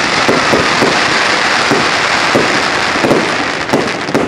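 Aerial fireworks shells bursting overhead: a dense, continuous crackle broken by many sharp bangs at irregular intervals.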